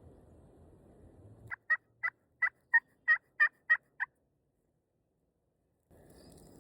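Turkey yelping: a run of nine short, evenly spaced two-note yelps over about two and a half seconds, starting about a second and a half in.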